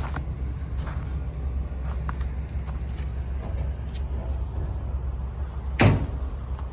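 Large diesel excavator engine idling with a steady low hum, with light clicks and one loud metallic clank a little under six seconds in.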